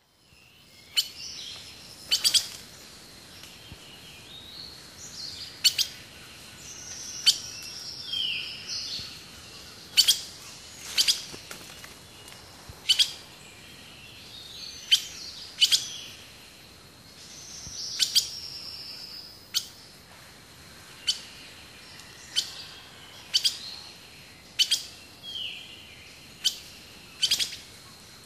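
Wild birds calling: short, sharp call notes repeated every second or so, mixed with a few longer whistled notes that slide down in pitch.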